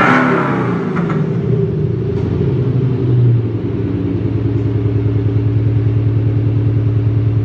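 Audi Q5 45 TFSI petrol engine sound, played through an Atarius ASR active sound module, with a brief rev at the start and a short swell about three seconds in. It then settles into a steady, evenly pulsing idle.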